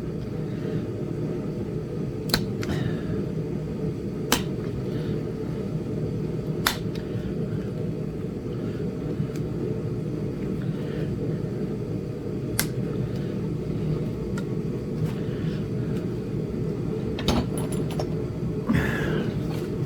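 Steady low hum of a running heater, broken by a handful of sharp clicks several seconds apart as flakes snap off a small Flint Ridge chert point being knapped, two of them close together near the end.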